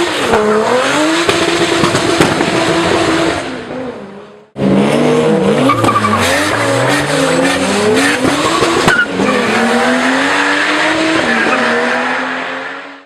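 A drifting car's engine revving up and down while its tyres squeal and skid. The sound fades away about four seconds in, stops briefly, then starts again and fades out near the end.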